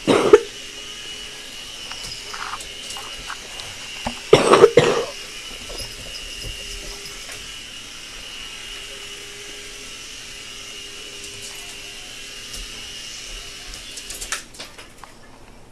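A small motor running with a steady high whine, broken by two loud short bursts about four seconds apart.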